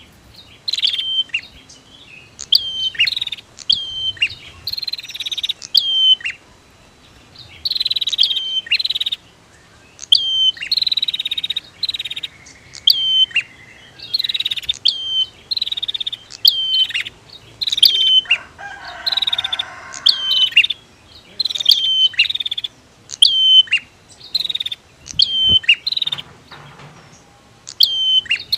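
Prinias (prenjak), male and female, calling. The calls are bursts of sharp, high notes that drop in pitch, several a second, broken by short pauses, with longer buzzy trills between some bursts.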